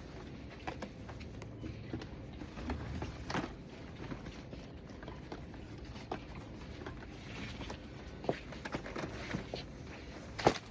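Supermarket background: a steady low hum with scattered, irregular clicks and knocks. The sharpest knock comes near the end.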